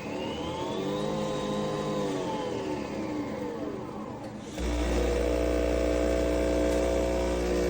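Nespresso Vertuo Next coffee machine running. A motor whir rises and then falls in pitch over about four seconds, then a steady, louder hum with a deep buzz switches on abruptly and holds.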